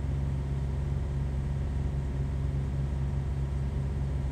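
A steady low hum that stays constant, with no distinct events.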